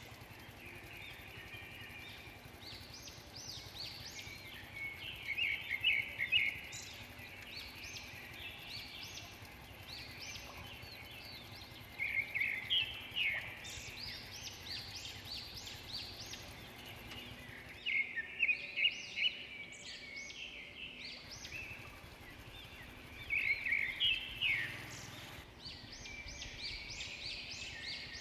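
Songbird singing: a short phrase of quick chirping notes, repeated every five to six seconds, over faint steady background noise.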